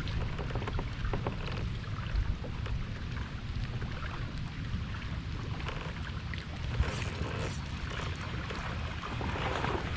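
Wind buffeting the microphone on a fishing kayak: a steady low rumble, with scattered small clicks and knocks from the boat and tackle.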